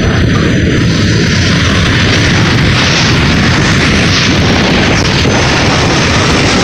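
Jet engine of a jet-powered car running: a loud, steady, rushing noise.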